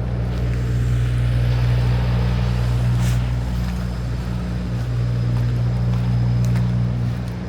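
A truck engine idling with a steady low hum.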